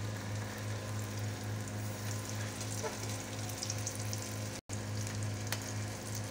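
Beef shami kababs sizzling and crackling as they shallow-fry in hot oil in a pan, over a steady low hum. The sound cuts out for an instant about four and a half seconds in, and there is a light tap near the end.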